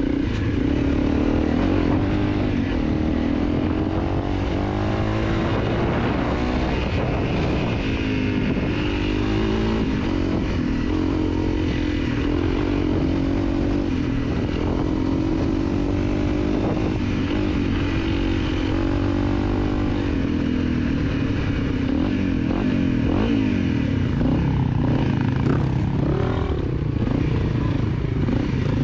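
Dirt bike engine running while riding a trail, its pitch rising and falling continually as the throttle opens and closes.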